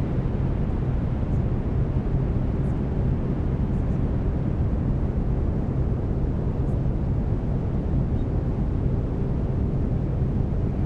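Steady brown noise: a deep, even rumbling hiss with a low steady tone underneath, the carrier of the binaural delta-wave beats.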